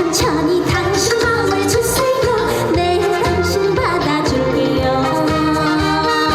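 Trot song performed live: a woman singing with vibrato over a band backing track with a steady beat.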